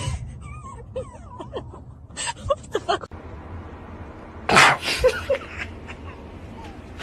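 A cat making several short rising and falling mews in the first few seconds, then a brief loud burst of noise a little past halfway and two short squeaks just after it.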